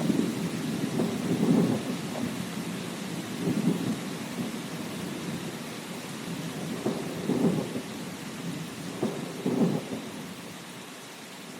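Thunderstorm: steady rain hiss with thunder rumbling in several rolling swells, the thunder dying away near the end.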